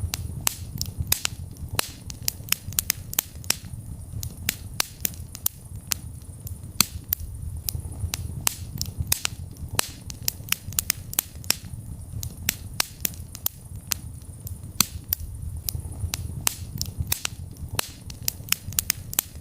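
Wood fire burning in a fireplace, crackling and popping: many sharp snaps at uneven intervals, several a second, over a steady low rumble of the flames.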